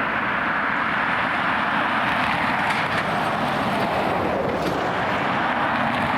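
Jet airliner engines, a steady loud rushing noise that holds even throughout.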